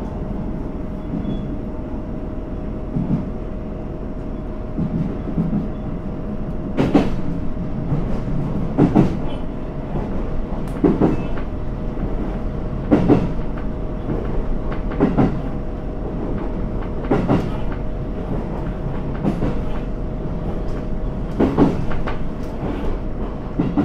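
Onboard running sound of a GV-E400 series diesel-electric railcar: a steady rumble and hum. From about seven seconds in, the wheels click over rail joints about every two seconds.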